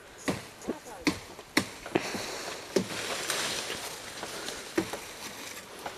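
Leafy tree branches knocked and shaken, about seven sharp knocks with the rustle of leaves, loudest around the middle, as fodder is brought down from the tree.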